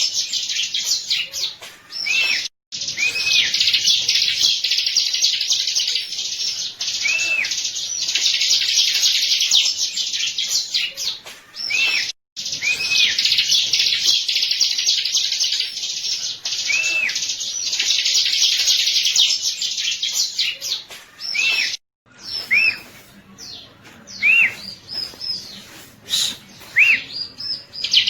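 Bar-winged prinia (ciblek) singing: long bouts of rapid, high chattering chirps laced with a repeated arched whistled note, cut by sudden brief silences about 2.5, 12 and 22 seconds in. In the last few seconds the song thins to separate, spaced calls.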